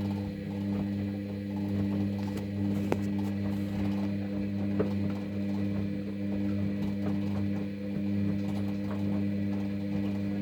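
Hoover VHD Sensor Dry washer-dryer running a wash cycle: a steady motor hum with a light rattle of the turning drum, and two sharp clicks about three and five seconds in.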